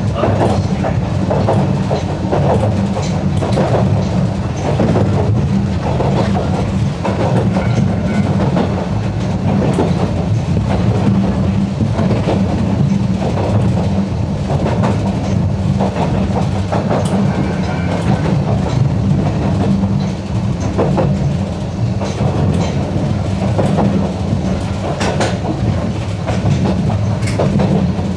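Narrow-gauge electric train running, heard from on board: a steady low rumble with the wheels clicking over the rail joints.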